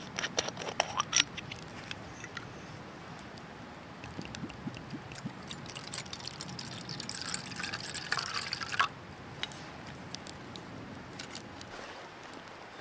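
Liquid pouring and dripping with scattered sharp clicks, loudest in the first second; the pouring stops abruptly about nine seconds in.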